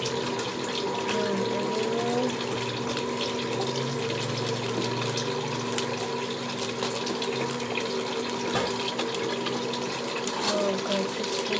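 Eggs frying in hot oil in a pan, a steady sizzling hiss with fine crackles.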